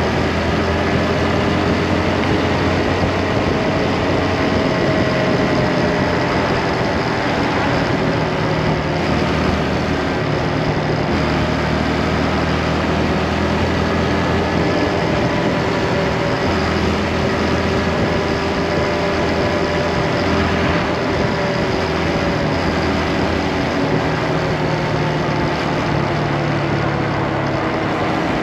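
Motorcycle engine running under way, its pitch drifting gently up and down, over a steady rush of noise while riding.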